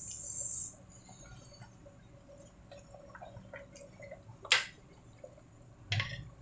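A high hiss that cuts off under a second in, then faint scattered drips and light clicks in a quiet kitchen, with one sharper click about four and a half seconds in.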